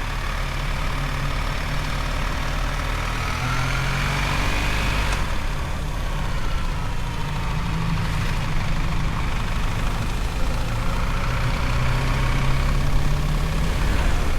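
BMW R1300 GS boxer-twin engine running under way, its note rising as it pulls, changing abruptly about five seconds in and then falling away as it eases off.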